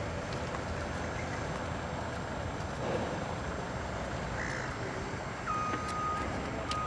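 Steady outdoor background noise with a bird calling briefly once or twice near the middle. From about five and a half seconds in, a vehicle's reversing beeper sounds a steady single-pitched tone in long beeps.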